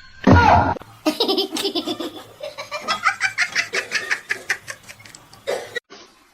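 A person laughing hard in quick repeated bursts for several seconds, after a short loud sound right at the start.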